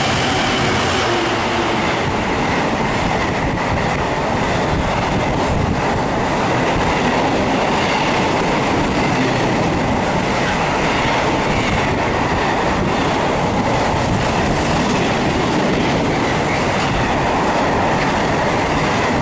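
Freight train hauled by a Class 66 diesel locomotive running through the station at speed with a long rake of container wagons: a loud, steady rumble of wheels on rail that holds at the same level throughout.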